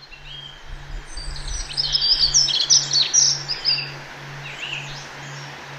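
Songbirds chirping and twittering in quick, high, sliding notes, busiest about two seconds in, over a steady background hiss. A soft low tone pulses about twice a second underneath.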